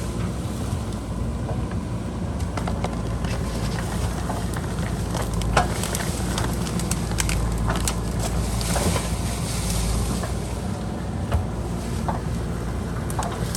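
A JCB backhoe loader's diesel engine running steadily under work, with scattered sharp knocks and clatter through it, the loudest about halfway and again near the end.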